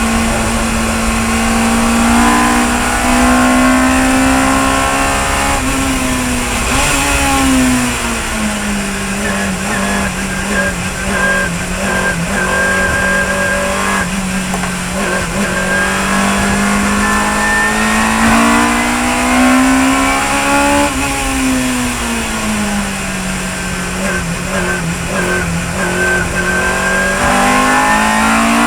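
Chevron B19 sports racing car's engine at racing speed, over a steady hiss. Its note climbs slowly, then drops in steps about a quarter of the way in and again about three quarters in, holds steady between, and climbs again near the end.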